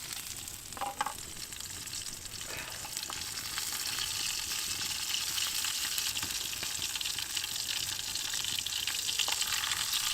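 Scarlet elf cup mushrooms sizzling as they fry in a pan over a campfire, a steady hiss with scattered small crackles, getting gradually louder.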